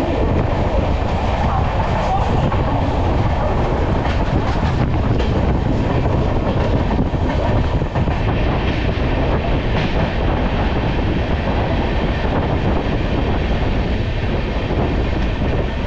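Express passenger train running at speed, heard from an open coach doorway: a steady loud rush of wheels on rails and air. There is some clatter of wheels over the track.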